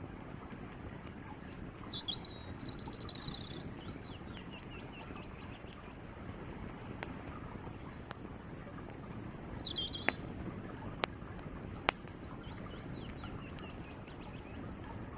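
Wood fire crackling with scattered sharp pops over the steady rush of a creek. A songbird sings twice: a rapid trill about two seconds in, and a high trill that drops in pitch around nine seconds in.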